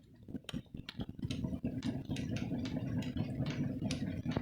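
Bonfire of damp wood crackling with irregular small pops as embers get it burning. About a second in, a low steady rumble comes in under the crackle.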